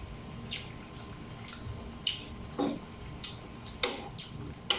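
Irregular light taps and clinks from cookware, about one or two a second, over a low steady hum.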